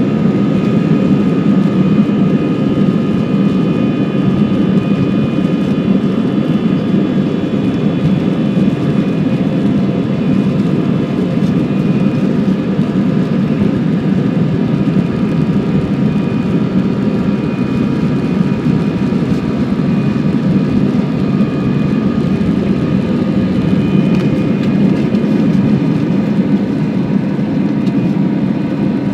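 Airbus A320 jet engines heard from inside the passenger cabin: a steady, loud rushing noise with several thin, high whining tones over it, holding constant with no change in pitch.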